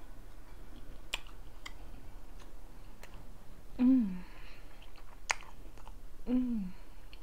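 A person chewing a mouthful of sushi, with wet mouth clicks and smacks scattered through. Twice she gives a short hum that falls in pitch, an "mm" of enjoyment, a little before the middle and again near the end.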